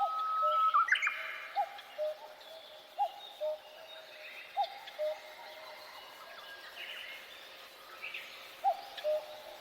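Wild birds calling: one bird repeats a short low call every second or so at uneven intervals, while others chirp and whistle at higher pitch over it.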